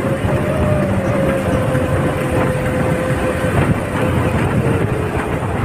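A moving vehicle: steady rumbling travel noise with a steady whining tone that sags slightly in pitch and fades near the end.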